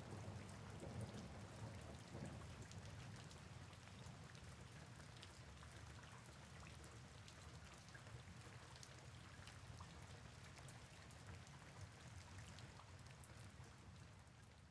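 Faint rain falling: a steady hiss with scattered light drop ticks, fading out at the end.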